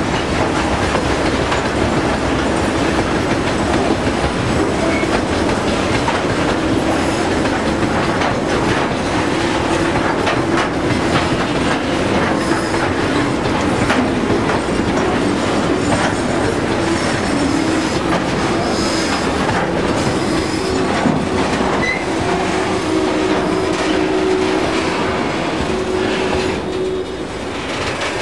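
Railway train running, a steady loud rumble with many clicks of wheels on rail and a faint steady squeal, easing off near the end.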